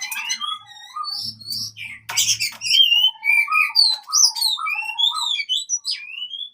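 Oriental magpie-robin (kacer) singing a rapid, varied run of whistles, rising and falling glides and sharp chirps: the aggressive 'fighting' song.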